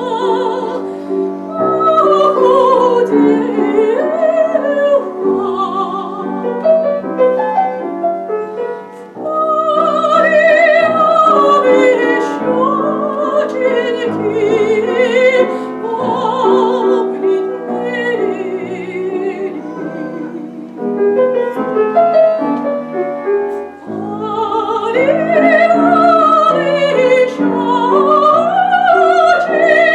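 Live classical music: a melody with wide vibrato, sung in an operatic style, over piano accompaniment, with short breaks between phrases.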